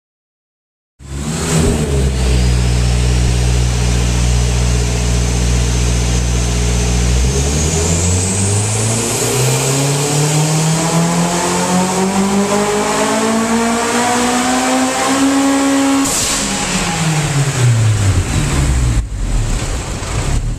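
Turbocharged Honda S2000 F22C four-cylinder engine on a chassis dyno. It holds a steady low rpm for several seconds, then makes a full-throttle pull with the revs climbing smoothly for about eight seconds while a high whistle rises alongside. Near the top there is a sudden rush of noise and the revs fall away.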